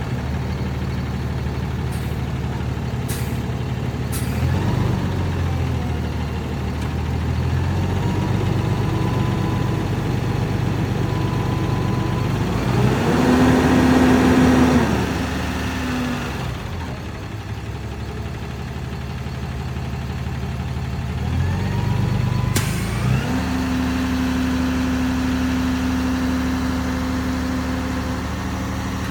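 Diesel engine of a 2012 Peterbilt 337 truck running, speeding up and settling several times. A loud hiss lasts a few seconds in the middle.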